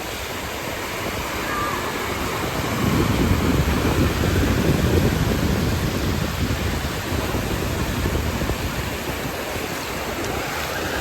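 Surf washing ashore mixed with wind rushing over the microphone, a steady roar that swells about three seconds in and eases again.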